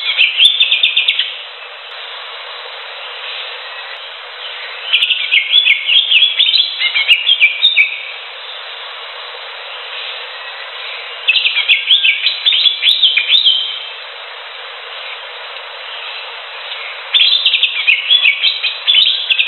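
A cucak hijau (leafbird) sings bursts of rapid, varied, jumping phrases, four times, each about two to three seconds long and about six seconds apart. A steady hiss fills the pauses, and the recording sounds thin and narrow-band.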